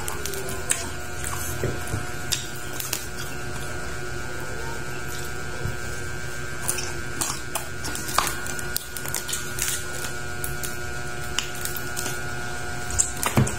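Close-up eating sounds of crispy deep-fried pork head eaten by hand: wet chewing and lip smacking, with scattered sharp crunches of the crackling skin, over a steady background hum.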